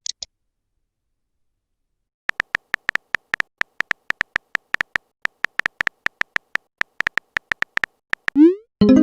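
Phone-keyboard typing sound effect: a fast, even run of short, identical clicking taps, about five a second, for several seconds. Near the end a rising chirp and a short tone play, a message-sent notification.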